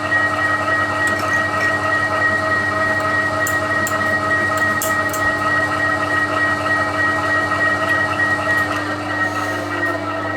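TOS milling machine running in reverse, spindle turning a left-handed drill bit into a broken stud: a steady mechanical running sound with a constant high tone, and a few short clicks in the middle.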